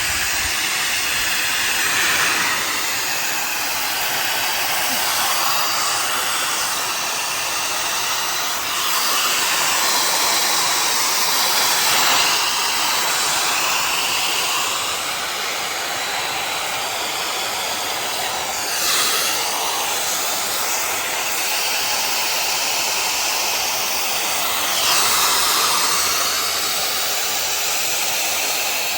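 Fanttik Solo 6-in-1 AirWave hot-air styler blowing steadily, a continuous airy hiss whose tone shifts every few seconds.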